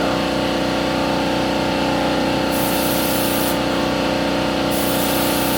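Primer being sprayed onto a car's engine bay: a hissing spray that starts and stops, on for about a second a little before the middle and again near the end, over a steady machine hum.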